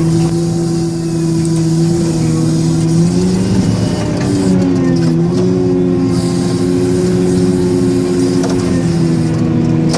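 Large wheel loader's diesel engine running under load. Its steady low note wavers and rises about three seconds in, settles, then drops again near the end.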